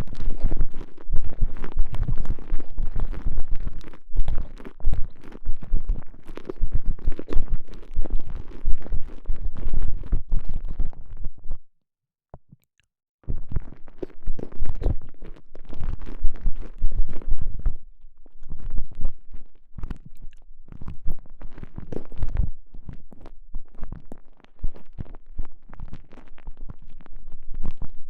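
Microphone inside a TENGA Egg's stretchy elastomer sleeve, squeezed and rubbed: dense, irregular, muffled squishing and rubbing with a heavy low end. The sound drops out completely for about a second and a half near the middle.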